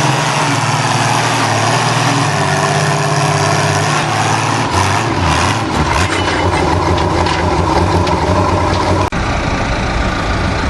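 Engine running steadily at a tractor pull, its pitch dropping lower about four to five seconds in, with an abrupt break in the sound about nine seconds in.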